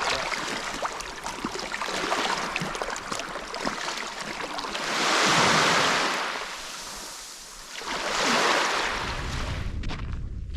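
Surf washing ashore as a steady rush, with two louder waves about three seconds apart. A low wind rumble on the microphone comes in near the end.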